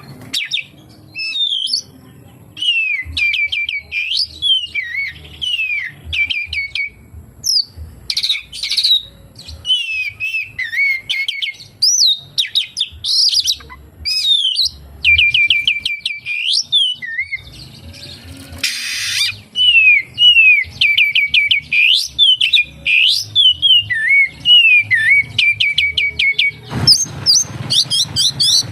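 Oriental magpie-robin (kacer) singing a continuous, varied song of loud sliding whistles and rapid runs of repeated notes, its phrases mimicked from other birds. A short harsh burst comes about two-thirds of the way through, and the song gets louder and rougher near the end.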